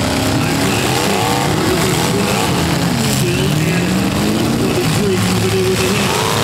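Several demolition derby cars' V8 engines running and revving at once, their pitches rising and falling over one another.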